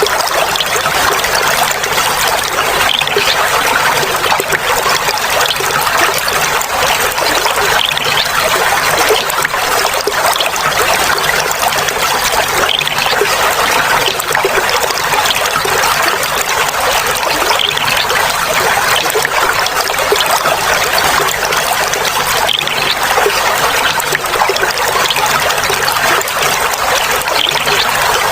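Clear flowing water trickling steadily, an even, unbroken splashing hiss.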